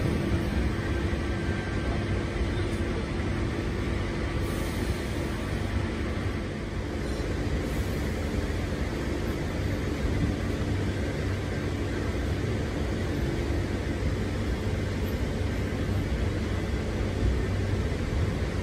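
Interior running noise of a Chopper C set electric suburban train in motion: a steady rumble of wheels on the track heard from inside the carriage, with a faint steady hum that fades out about halfway through.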